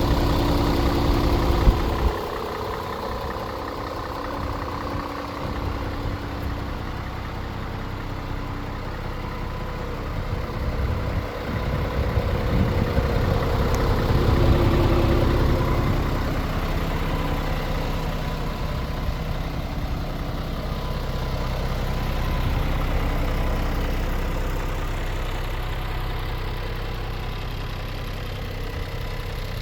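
Scania R500 truck's 13-litre inline-six diesel engine running at idle. It is louder for the first two seconds, then settles, swelling louder twice more midway and later on.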